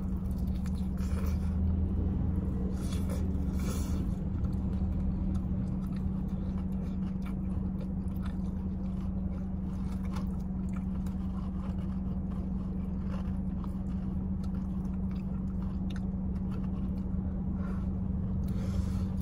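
Close-up eating sounds: biting, crunching and chewing of crispy fried chicken (ayam geprek) eaten by hand, with scattered crackles that are louder around the first few seconds and near the end. Under them runs a steady low hum from the car running.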